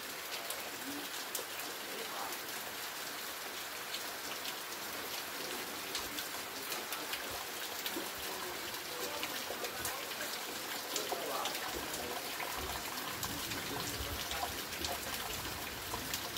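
Heavy rain falling steadily, a dense hiss of countless drops hitting leaves and ground close by. About twelve seconds in, a low rumble joins it.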